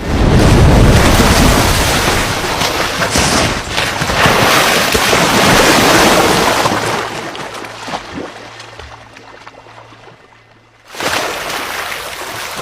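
Loud rush of splashing, surging water as a polar bear lunges at a seal. It starts suddenly, stays loud for several seconds, then dies away, and a second sudden rush of water starts near the end.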